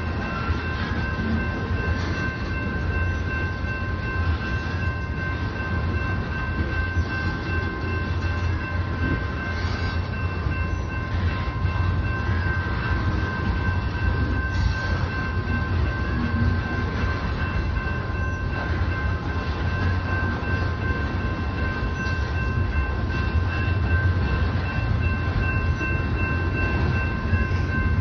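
Loaded freight train of tank cars rolling steadily past: a continuous low rumble of wheels on rail, with a steady high-pitched ringing held throughout.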